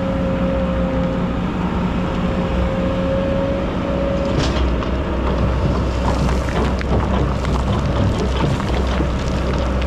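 Excavator's diesel engine running under load with a steady hydraulic whine. From about four seconds in, a gritty crackling hiss of sand and stones pouring joins it.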